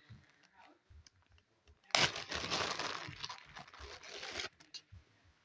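Crinkling, rustling noise from handling the container of homemade purple slime, running for about two and a half seconds and stopping abruptly.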